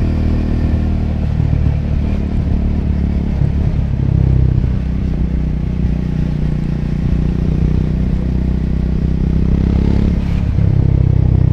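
Triumph Scrambler 400X's single-cylinder engine running with a steady exhaust note, swelling a little louder about four seconds in and again near the end.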